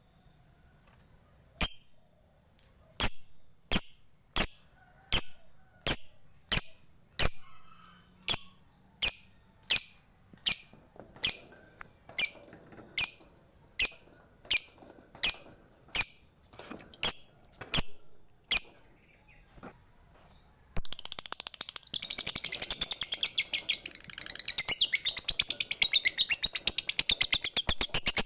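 Lovebird giving a long series of single sharp ticking calls, a little more than one a second ('ngetik'). About three quarters of the way through it breaks into a long, fast, loud chattering trill ('ngekek').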